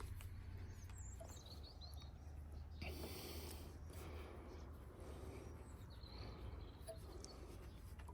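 Faint outdoor background with a steady low rumble, a few short high chirps, and a brief rasping scrape about three seconds in.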